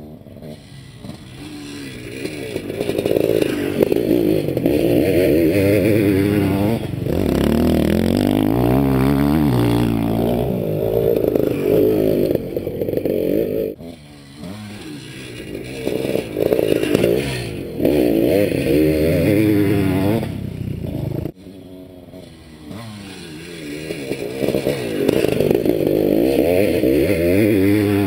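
Honda CR500 two-stroke single-cylinder motocross engine revving hard, pitch climbing and dropping with the throttle as the bike goes round the track, growing louder as it comes by and fading as it moves away, with the throttle chopped abruptly about two thirds of the way through.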